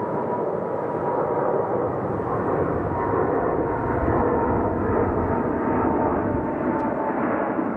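Jet airliner's engines at takeoff power: a steady, loud rumble with a thin fan whine that drifts slightly lower in pitch and fades near the end.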